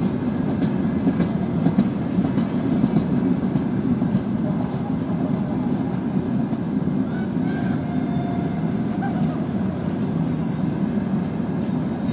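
A freight train of tank wagons rolling past with a steady rumble of wheels on rails, with a few light clicks in the first few seconds. Faint wheel squeal comes in briefly a little after halfway.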